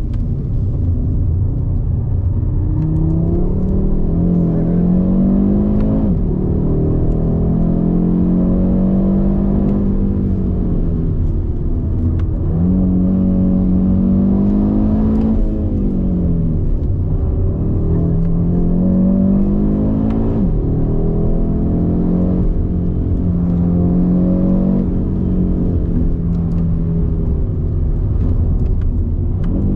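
Audi RS 3's turbocharged five-cylinder engine heard from inside the cabin, accelerating hard and easing off in turn. The pitch climbs and then drops suddenly at each upshift, about three times, and glides down between pulls, under a steady rumble of tyre and road noise.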